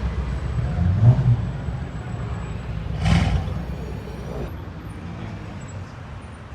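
Car engine running and revving in two short surges, about a second in and about three seconds in, then fading away.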